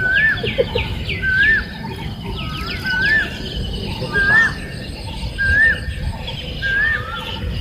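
A bird calling over and over, a short whistled note that rises and falls, about once a second, seven times, with quicker downward-sliding notes above it. A low, steady rumble lies underneath.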